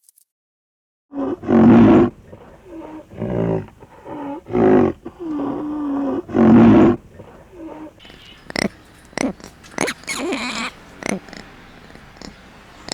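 An animal giving a series of about five loud, pitched calls, followed by quieter sharp clicks and a few shorter calls.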